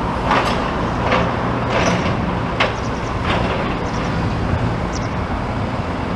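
Steady road traffic rumble, with a short sharp tick about every three-quarters of a second.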